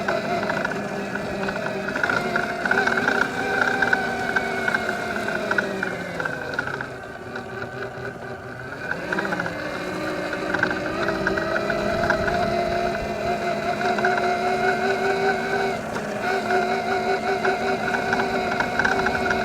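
Electric pit bike's mid-drive motor whining under throttle, with drivetrain noise. Around six seconds in the whine sinks lower and quieter as the bike slows, then rises again about three seconds later and holds steady.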